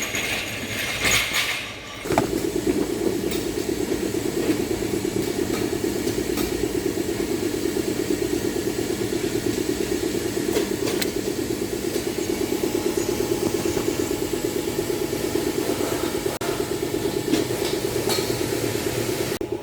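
A car engine running steadily at idle, with a quick, even pulse. A short noisy rattle comes before it settles, about two seconds in.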